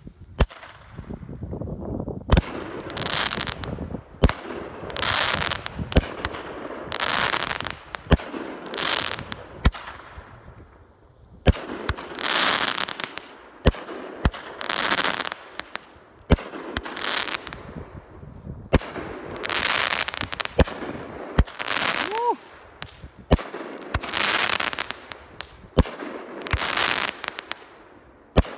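Phantom Fireworks Pyrotechnic Mother Lode 16-shot cake firing its shots: a sharp bang every second or two, each followed by about a second of crackling as the crackling stars and brocades break.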